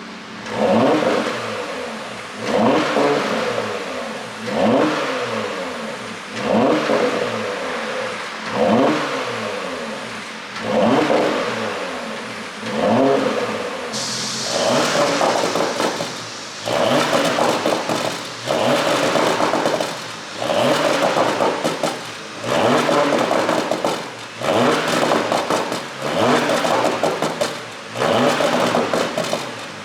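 Porsche 971 Panamera 4's twin-turbo V6 revved again and again, about one blip every two seconds, the pitch climbing then dropping each time. The exhaust is ECU-tuned to pop and crackle on the overrun, with a harsher crackle over the revs in the second half.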